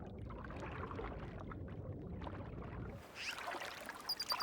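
Water sloshing and splashing in a pond. About three seconds in the sound changes abruptly to a lighter, hissier splashing, with a few short high chirps near the end.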